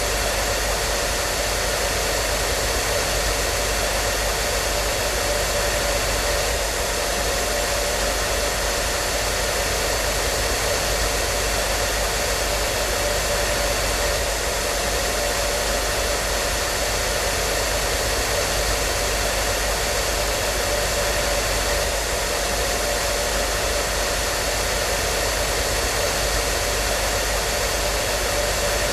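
Hair dryer running continuously at a steady setting: an even rushing of air with a faint motor hum.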